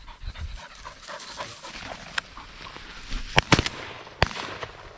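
Shotgun shots during an upland bird hunt: a loud close pair of cracks about three and a half seconds in, then another shot about a second later. Before the shots a bird dog is heard.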